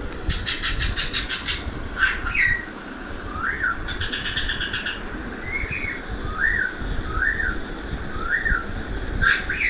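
Parrot calling: a fast rattling chatter near the start, then a string of short whistled calls that rise and fall, about one a second.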